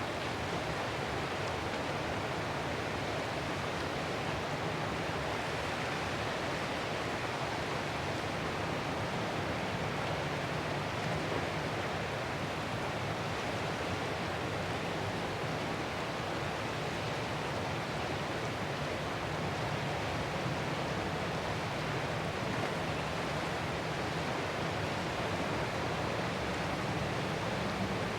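Ocean surf: a steady, even rush of breaking waves, with no single wave standing out.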